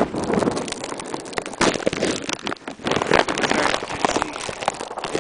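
Plastic bag wrapped over a camcorder crackling and rustling against its microphone, dense and irregular with many sharp crinkles.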